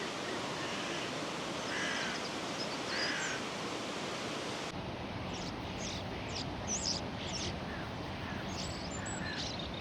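Steady rush of flowing water with birds calling over it, a few calls early on and many short high calls in the second half.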